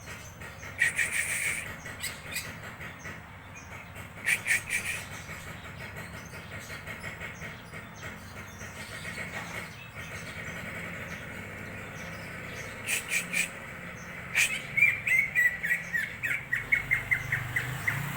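Cucak ijo (greater green leafbird) singing: short bursts of chirping notes with pauses between, then a longer run of quick repeated notes that step down in pitch near the end.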